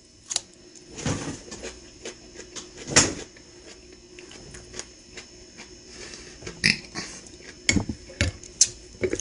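Eating a seasoned pickle: crunching bites and wet chewing in short, irregular bursts, the loudest about three seconds in, with a few sharp clicks near the end.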